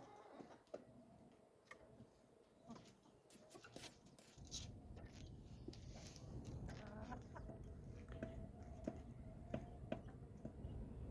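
Chickens clucking faintly, with scattered light clicks and knocks. A low rumble comes in about four seconds in.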